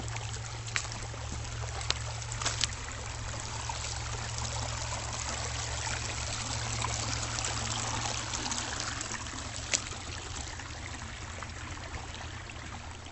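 Shallow creek water trickling steadily, with a few sharp clicks and a steady low hum underneath.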